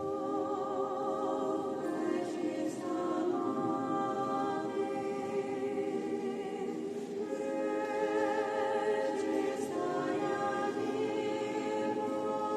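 Church choir singing a spiritual song to the Mother of God in several voices, with long held chords that change every few seconds.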